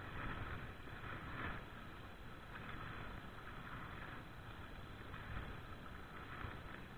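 Water splashing and lapping around a small rowboat, swelling softly about once a second, with wind rumbling on the microphone.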